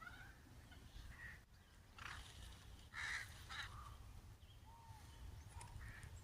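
Crows cawing, several separate calls with the roughest about two and three seconds in, over a faint steady low rumble.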